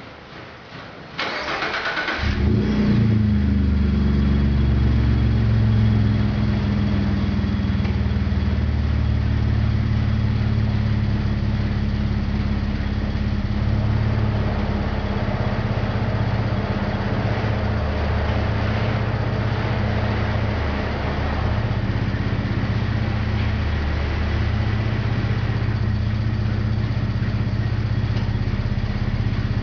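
2013 Ford F-150 with a Borla cat-back exhaust and touring mufflers starting: a second or so of cranking, the engine catches and runs a few seconds at a raised idle, then settles into a steady idle through the exhaust.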